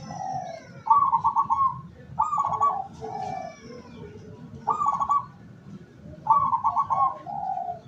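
Zebra dove (perkutut) cooing: about four phrases, each a rapid stuttering run of notes, some ending in a lower drawn-out coo.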